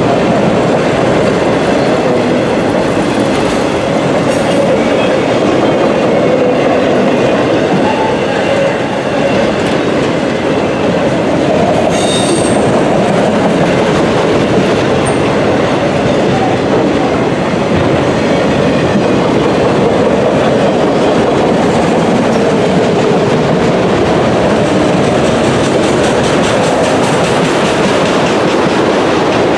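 Freight train cars rolling past at close range: a steady wheel-on-rail rumble and clatter, with a brief high wheel squeal about twelve seconds in.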